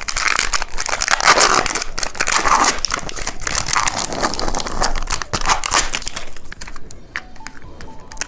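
Plastic candy wrapper being crinkled and torn open, a dense crackling that lasts about six seconds, then thins out to a few light clicks and rustles.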